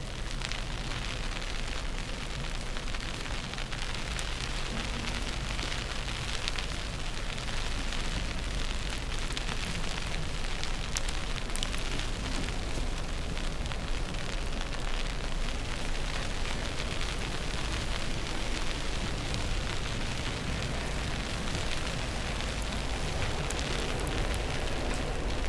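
Steady rushing noise with fine crackling throughout: snowstorm wind and snow against the microphone, over a low city rumble.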